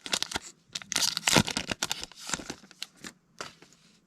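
Foil wrapper of a Pokémon TCG Vivid Voltage booster pack being torn open and crinkled, loudest about a second in, then softer rustles.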